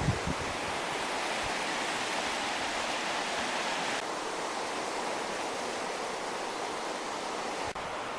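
Rio Grande river water rushing in a steady hiss, with a few low thumps in the first moment. The higher part of the hiss eases about halfway, and the sound drops out briefly near the end.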